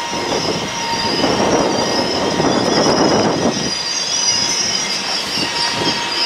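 GWR Intercity Express Train running slowly into the platform, with a steady high-pitched squeal over the rumble of its wheels on the rails. The rumble swells from about a second in and eases after three and a half seconds.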